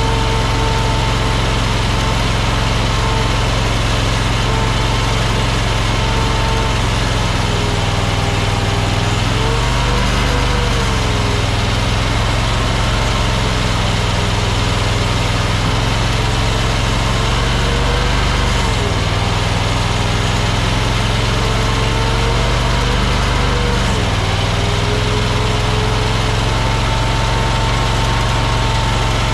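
AGT Industrial LRT23 mini skid steer's engine running continuously while working. A whine in its sound dips and rises in pitch a few times, with matching shifts in the low rumble, as engine speed and load change.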